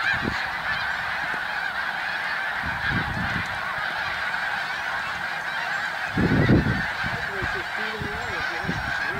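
A large flock of snow geese calling together: a dense, steady chorus of overlapping honks. A brief low rumble about six seconds in is the loudest moment.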